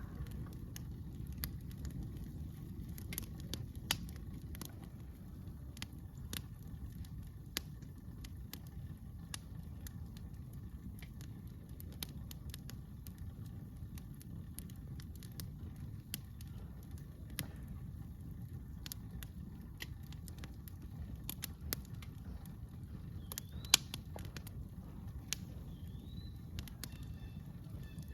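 Wood campfire crackling, with irregular sharp pops and snaps over a steady low rumble. A few short bird chirps come in near the end.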